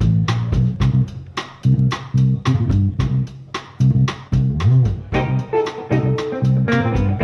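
Live funk-jazz band groove: an electric bass line over steady drum hits. About five seconds in, sustained chords come in on top.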